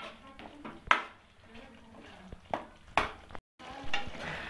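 Metal spoon knocking against the karahi a few times, sharp isolated clacks, while the chicken is stirred in its cream sauce.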